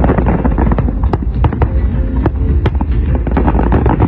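Aerial fireworks display: many shells bursting in quick succession, a dense, irregular run of loud bangs and crackles over a continuous low rumble.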